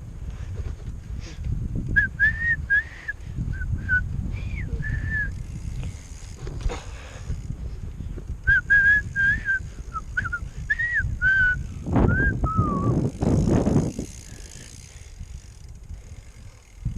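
A person whistling two runs of short notes, with a longer falling note about twelve seconds in, over low wind rumble on the microphone from riding a bicycle.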